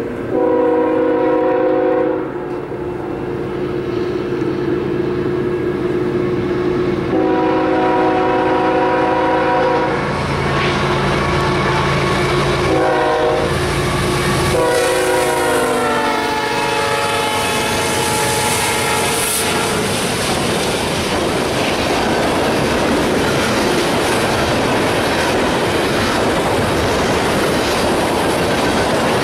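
Diesel freight locomotive sounding its horn in the grade-crossing pattern as it approaches and passes: two long blasts, a short one and a final long one that sags in pitch. Then a long string of tank cars rolls past with steady clickety-clack wheel noise.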